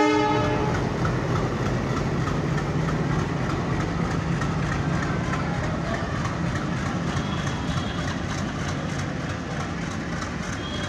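A train rolling past: the locomotive's engine hums low and steady over the rumble of the wagons on the rails, slowly fading. The tail of a horn blast cuts off in the first half second.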